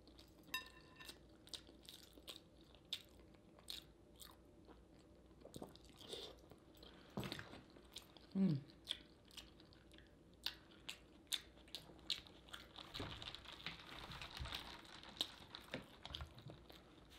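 A person chewing saucy seafood-boil food close to the microphone: faint wet chewing with irregular sharp mouth clicks. There is a short falling hum about eight seconds in.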